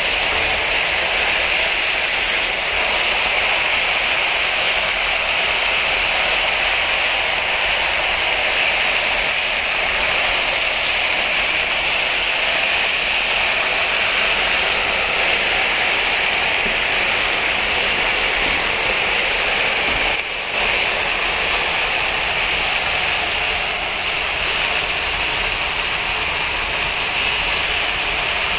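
Bitter gourd slices sautéing in a pan, giving a steady sizzling hiss, with a wooden spatula stirring and scraping through them.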